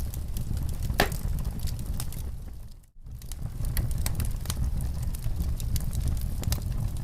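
Fire in a fireplace crackling, with scattered sharp pops over a low rumble of flame; the loudest pop comes about a second in. The sound fades out for a moment about three seconds in and then returns.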